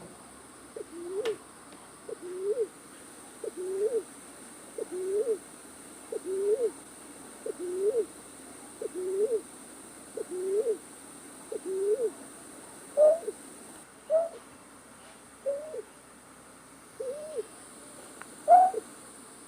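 A night bird's call, the kind played back as a trapping lure: a series of short hooting notes, each rising and then falling in pitch, about one every 1.3 seconds. After about 14 seconds the notes go a little higher and come less evenly.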